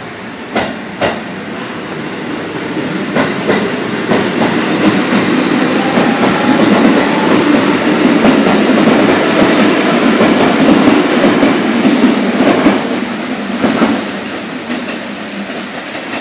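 JR 719 series local electric train running along the platform, its wheels clacking over rail joints and the rumble swelling as the cars pass close, then easing off. Two sharp clacks sound about a second in.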